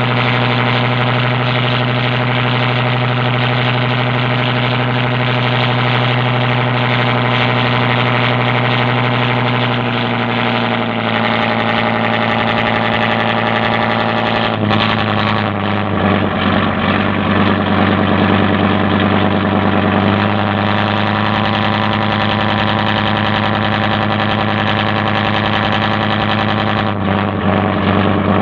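Boat engine running steadily, its speed shifting in steps several times.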